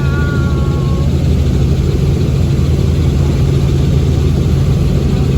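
Steady, loud, low engine drone, with a short bit of a voice at the start.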